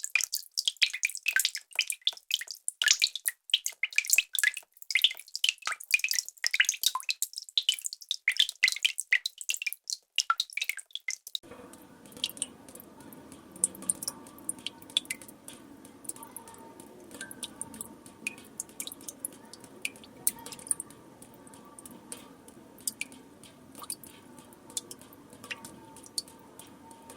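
Water drops falling rapidly into water, a dense run of high plinks several a second. About eleven seconds in it cuts to a quieter recording: sparse, faint drips over a steady low background hiss.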